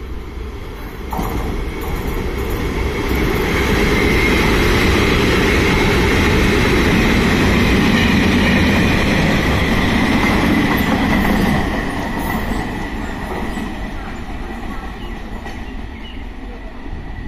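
Freight train hauled by an electric locomotive, with further locomotives, coaches and a guard van in tow, passing through a station. It grows louder about a second in, runs loud and steady with a high whine, then fades after about twelve seconds as the train draws away.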